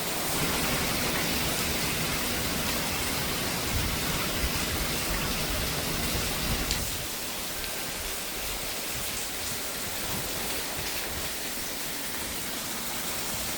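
Heavy rain pouring steadily as wind gusts. A low rumble of wind runs under the rain for the first half and eases about seven seconds in.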